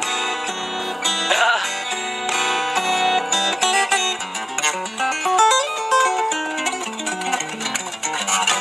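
Solo acoustic fingerstyle guitar: a melody picked over a moving bass line, both played together on one guitar.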